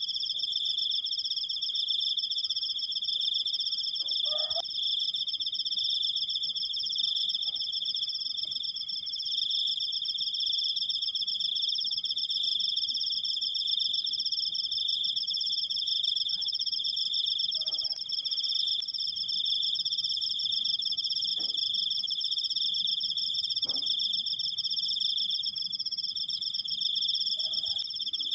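Cricket trilling continuously in one long, unbroken, high-pitched trill with a fast, even pulse.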